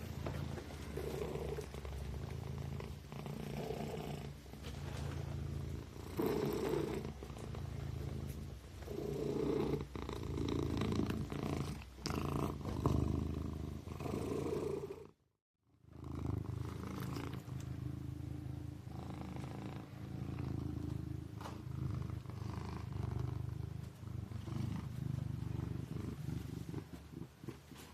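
Kitten purring steadily, a low rumble that swells and eases in a slow rhythm. It cuts out completely for under a second about halfway through.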